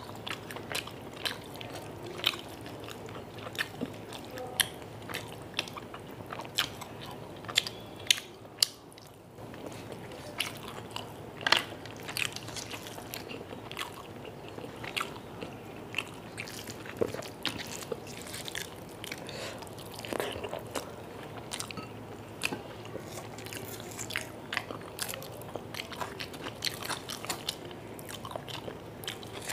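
Close-miked chewing and mouth sounds of a person eating rice and chicken curry by hand: a steady run of small wet clicks and smacks, with a few louder ones partway through.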